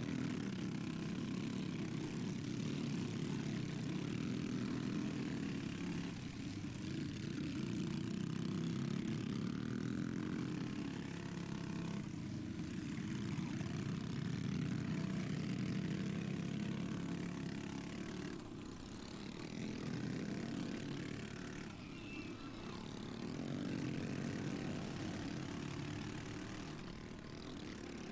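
Modified minibike engines running at race pace, small engines buzzing, with revs and loudness rising and falling every few seconds through the corners.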